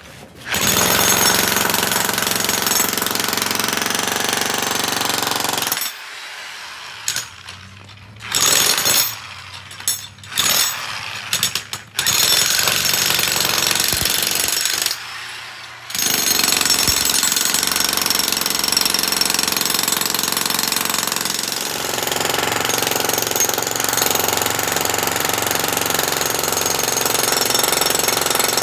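Jackhammer breaking concrete, hammering loudly. It stops and starts in short bursts for several seconds around the middle, pauses briefly, then runs steadily on.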